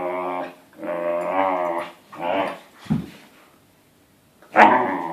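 Siberian Husky puppy vocalizing in play: three drawn-out, wavering whines in the first couple of seconds, a short low growl about three seconds in, then a louder yowl starting near the end.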